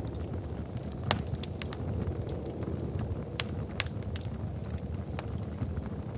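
Wood fire crackling in a fireplace: a steady low rumble of flames with scattered sharp pops and snaps, the loudest a little after a second in and twice more past the middle.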